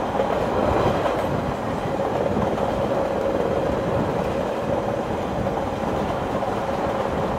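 A train running along the tracks: a steady rumble and rattle with a faint steady tone above it.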